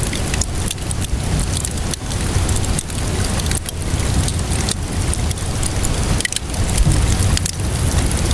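Wood fire crackling with sharp pops over steady rainfall and a low rumble.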